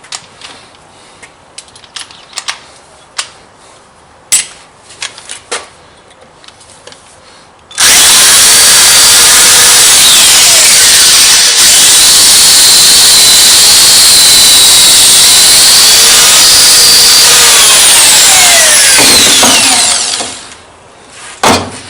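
Electric drill running for about twelve seconds, boring a hole in metal that is to be tapped, its pitch falling as it winds down. Light clicks and handling before it starts, and a single knock near the end.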